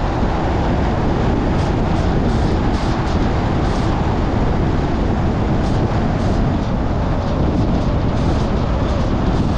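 Steady road and wind noise of a car driving at speed: a dense, even rumble of tyres on pavement.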